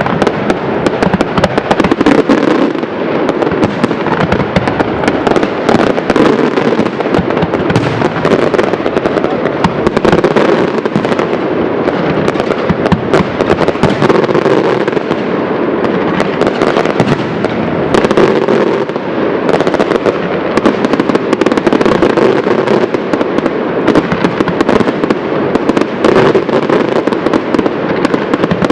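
Fireworks display in continuous, rapid-fire bursts: dense overlapping bangs and crackling with no pause, loud throughout.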